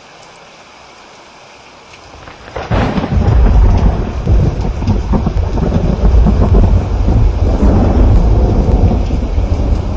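Steady rain, then about two and a half seconds in a thunderclap breaks and rolls on as a loud, long rumble under the rain.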